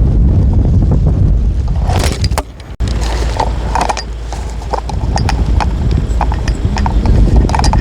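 Strong gusting wind buffeting the microphone as a heavy rumble, with irregular sharp taps and clicks throughout. The sound drops away briefly and breaks off sharply just under three seconds in, then the wind and taps resume.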